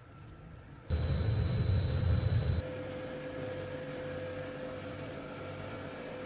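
Factory machinery running: a loud low rumble with a steady high whine starts about a second in and cuts off abruptly about a second and a half later, giving way to a steadier machine hum with a constant tone.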